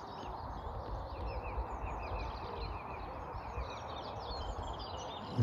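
Many small birds chirping and singing in quick, overlapping calls, over a steady background of outdoor noise.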